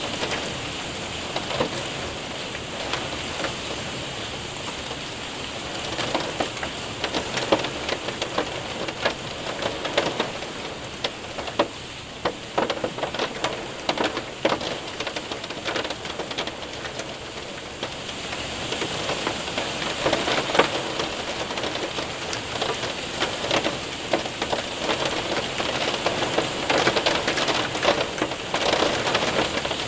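Rain and hail hitting a window and roof: a steady hiss of rain with a constant patter of sharp ticks and taps from hailstones, growing denser and louder in the last third.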